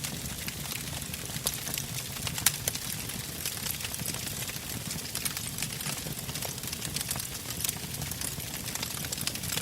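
Wood campfire crackling: frequent sharp pops and snaps from the burning logs over a steady low rumble of the flames, with one louder pop about two and a half seconds in.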